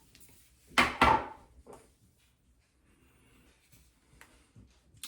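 Small beard-product containers being handled and set down on a hard surface: two sharp knocks about a quarter second apart about a second in, then a few faint taps.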